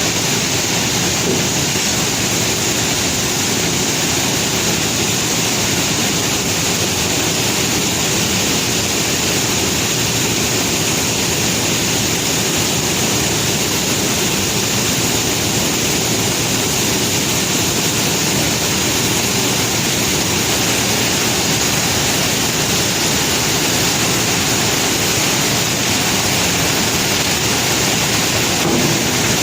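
Conveyor belts carrying rock: a steady, even rushing noise with no distinct knocks or changes.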